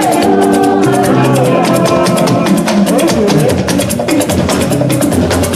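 Live church band music with fast, steady percussion (drums and a wood-block or rattle-like beat) over held instrumental or vocal tones.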